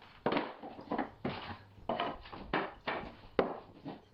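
Solid hardwood flooring boards being set down and shuffled into place on the subfloor, giving about eight or nine irregular wooden knocks and clacks.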